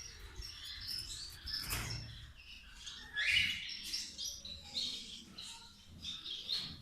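Bengalese finches chirping: short, high calls scattered irregularly, the loudest cluster about three seconds in.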